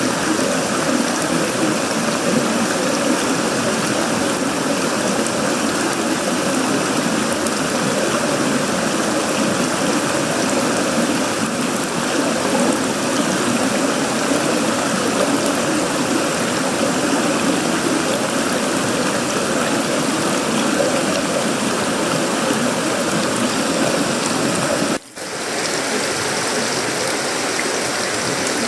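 Heavy tropical rain falling steadily on a sheet-metal roof, wood and leaves, a dense even downpour. The sound cuts out for a split second near the end and comes straight back.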